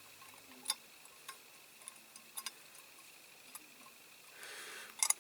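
Faint, scattered small clicks and taps of a tiny die-cast metal door being worked onto a toy van body, with a soft brush of noise and a sharper click near the end.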